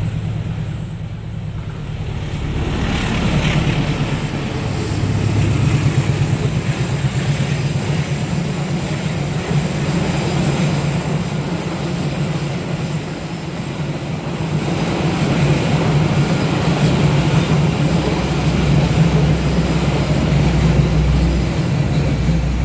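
Diesel-hauled passenger train passing on a railway bridge: the locomotive's diesel engine running steadily under the noise of wheels on the rails, growing louder about three seconds in.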